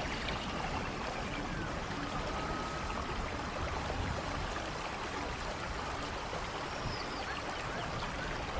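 Steady rainfall in a rainforest thunderstorm, an even hiss of falling water with no letup. A few faint high chirps sound over it, a couple of them near the end.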